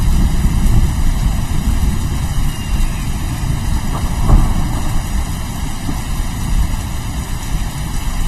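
Rolling thunder rumbling low and continuously over rain, with a sharper crack of thunder about four seconds in.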